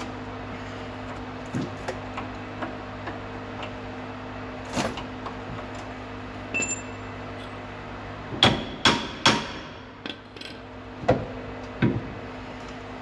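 Hammer striking metal suspension parts. A few light taps come first, then three hard blows in quick succession about eight and a half seconds in and two more a little later, each ringing briefly, over a steady low hum.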